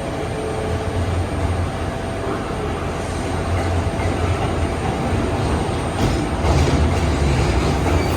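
A train rolling slowly on rails: steady running rumble, with a few clacks of wheels over rail joints about six to seven seconds in.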